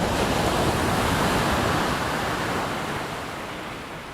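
A PT-17 biplane passing by: a rushing roar of engine and air noise that swells to a peak about a second in, then fades away steadily.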